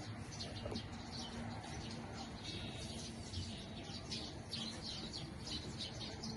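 Small birds chirping repeatedly in quick short calls, over a faint steady hum.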